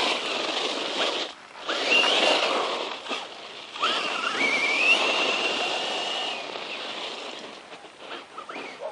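Brushless electric motor of a 1/10-scale RC truck whining in throttle bursts, its pitch rising as it speeds up and then holding, over a rush of tyre noise. It drops off briefly about a second and a half in and again around three seconds in.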